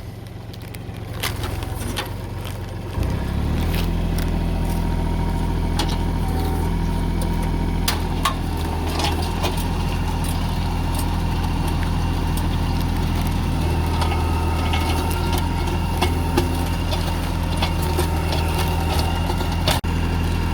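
Engine-driven post hole auger running steadily as it bores into dry, hard-packed clay; the engine comes up louder about three seconds in and holds there.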